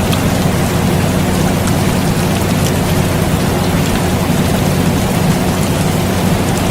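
Steady rain with scattered drop ticks, over the constant low hum of an air conditioner.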